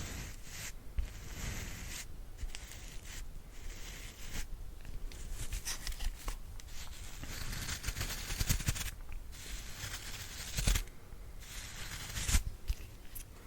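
Bristles of a brush swept in a run of scratchy brushing strokes, each a second or so long with short pauses between.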